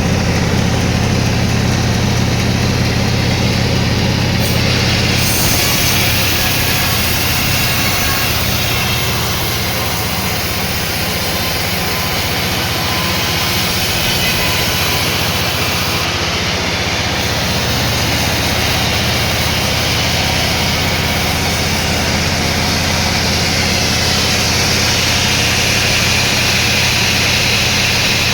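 Sawmill machinery running steadily: a low engine hum with a noisy whir of the saw over it, the saw noise a little brighter about five seconds in and again near the end.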